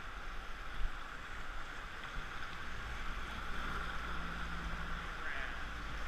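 Whitewater river rushing steadily around a raft: an even hiss of moving water with a low rumble underneath.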